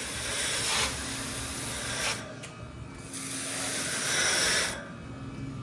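Two long bursts of hissing spray, the second starting about three seconds in, as the heat pump's outdoor coil is sprayed during cleaning.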